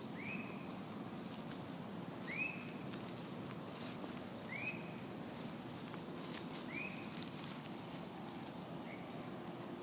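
A bird calling: a short, high, arched note repeated evenly about every two seconds, five times, the last one fainter, with faint crackles in between.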